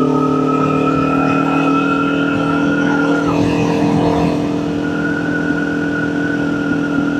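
Kawasaki Ninja 400's parallel-twin engine running at a steady speed, with a thin high whine over the engine note that fades about three seconds in and comes back a couple of seconds later.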